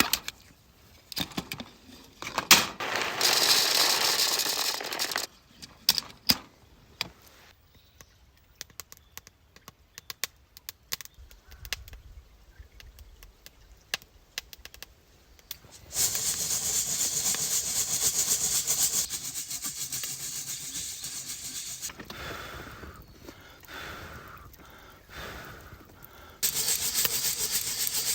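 Something being rubbed or scraped in long steady strokes, three times, with scattered clicks and light knocks in between.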